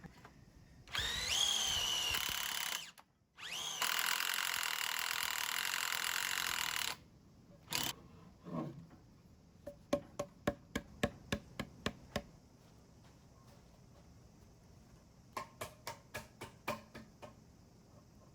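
Power drill running in two bursts of a few seconds each, each starting with a rising whine as the motor spins up. Then comes a run of about ten quick clicks, and a few more near the end.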